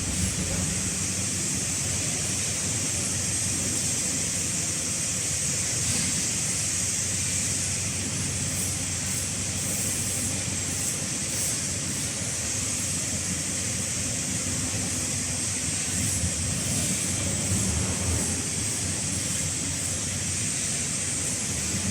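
Automatic cartoning machine running: a steady mechanical hum under a high hiss, with faint clicking from the mechanism now and then.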